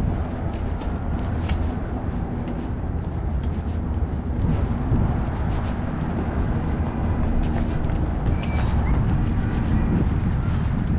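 Outdoor ambience: a steady low rumble, typical of wind on the microphone, with scattered light taps and clicks throughout.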